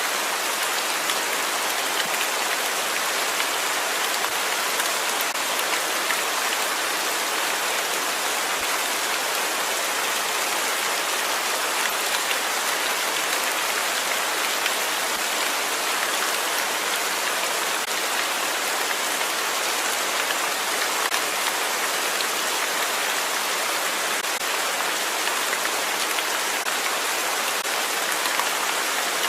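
Steady rain falling, an even hiss with small drop ticks.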